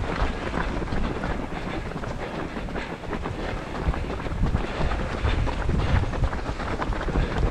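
Gusty wind from an approaching typhoon blowing across the microphone: a steady noise with a heavy low end that swells and eases.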